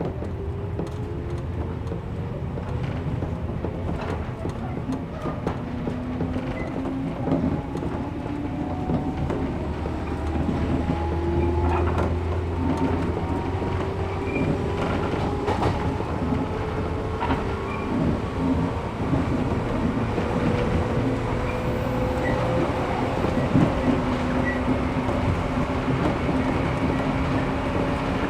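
Interior running sound of a 113 series resistance-controlled electric multiple unit picking up speed. The whine of the DC traction motors and gears climbs slowly and steadily in pitch over a low rumble, with scattered clicks from the wheels on the rails.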